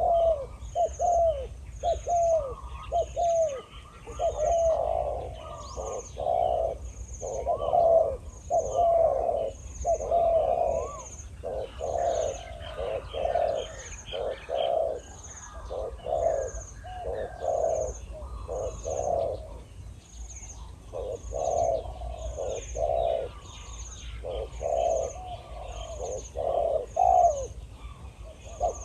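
Spotted doves cooing: runs of deep, rolling coos, nearly without pause, from a caged decoy male and a big-voiced wild male calling back at it. A faint, high chirp repeats about once a second behind them.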